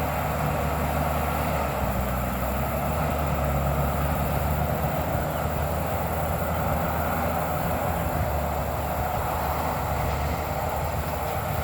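Bulldozer running steadily at a distance, its diesel engine hum under a continuous grinding rattle as it knocks down tall grass and small trees.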